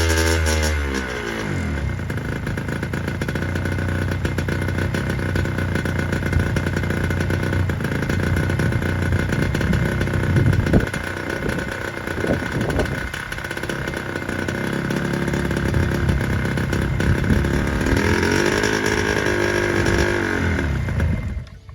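Honda NSR50's two-stroke single-cylinder engine running on a faulty carburetor. Its revs fall back from a blip at the start, run unsteadily with a few short revs in the middle, rise and fall again near the end, and then cut out.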